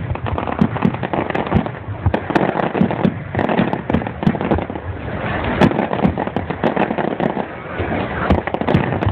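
Fireworks going off: a continuous barrage of sharp bangs and pops, several a second at irregular spacing, over a running crackle.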